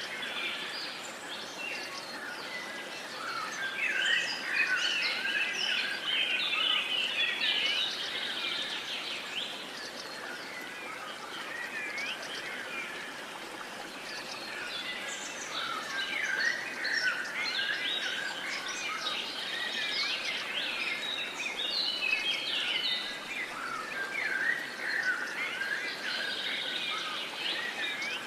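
A chorus of many songbirds singing and chirping at once, calls overlapping densely and without pause, over a steady even hiss.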